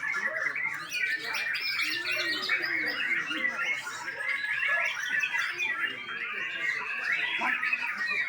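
White-rumped shama singing a continuous run of rapid, varied chirps and trills.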